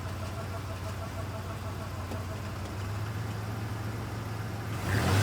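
1994 Ford Ranger's 3.0 V6 idling steadily, with a faint pulsing whine over the hum for the first couple of seconds and a sudden louder rush near the end. This is the bad sound the truck makes with the automatic transmission in gear, after the fluid was found low with metallic residue.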